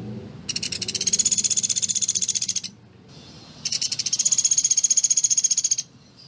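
Pelatuk beras (Sunda pygmy woodpecker) calling: two rapid, high-pitched rattling trills of tightly packed notes, each about two seconds long, with a short pause between.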